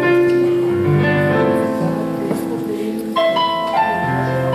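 Keyboard music: sustained piano-like chords, the notes changing about every second.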